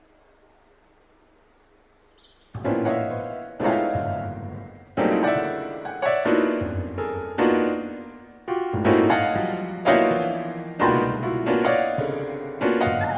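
Faint hiss for about two and a half seconds, then slow, sad piano chords, each struck and left to fade before the next.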